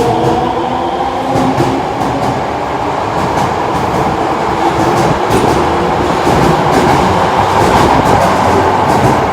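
Osaka Metro Sakaisuji Line subway train running along the station platform: a loud steady rumble of wheels on rail, with repeated clicks as the wheels cross rail joints.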